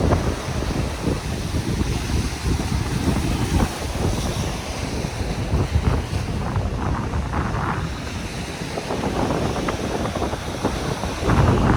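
Wind buffeting the microphone in gusts, over the steady wash of surf on the beach.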